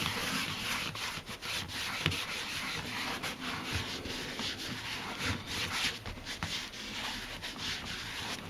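Cloth-covered French polishing rubber being rubbed over leather in a run of quick, irregular strokes, working leather dye into the surface.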